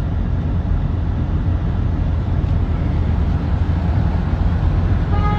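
Steady low rumble of a moving vehicle, with a brief high beep near the end.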